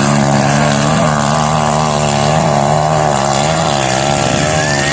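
Trail motorcycle engine running under throttle, its pitch wavering up and down in small surges and dips.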